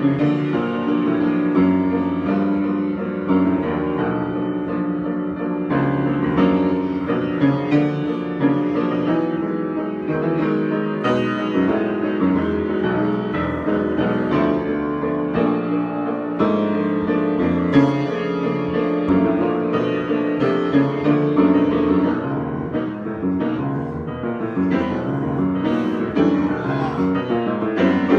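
Piano improvisation: a steady, unbroken flow of notes and chords.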